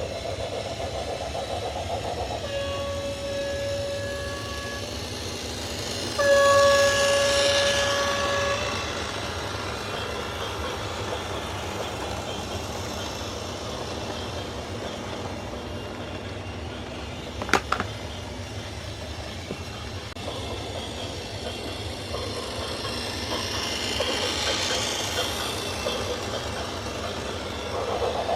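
A horn blows two long blasts on one steady pitch, the second louder, over a continuous low rumble. A single sharp crack comes a little after the middle.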